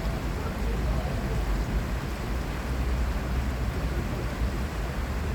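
Steady outdoor city ambience: a continuous low rumble with an even hiss above it and no distinct events.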